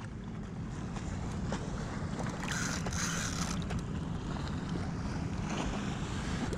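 Wind on the microphone and water sloshing against a kayak hull, with a brief louder hiss of water around the middle.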